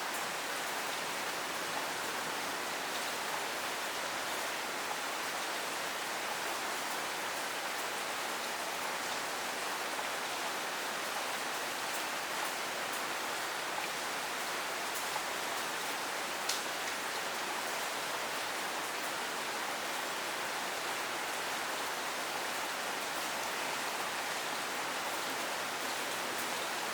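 Steady rain falling, an even hiss with scattered faint drip ticks and one sharper tick about two-thirds of the way through.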